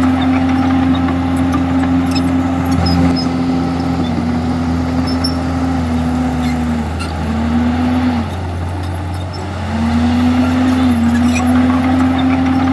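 Komatsu D51EX crawler bulldozer's diesel engine working steadily; its pitch and loudness sag a little past the middle, as if lugging under load, then climb back to full speed about three seconds later.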